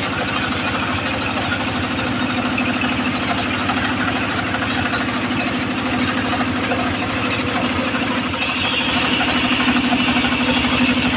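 Engine of a homemade circular saw rig running steadily with an even pulsing beat; about eight seconds in a brighter hiss joins it and the sound grows a little louder.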